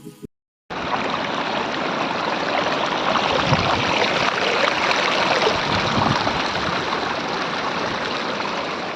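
Monsoon-swollen stream below a waterfall, its babbling water rushing steadily; the sound cuts in abruptly just under a second in, after a brief silence.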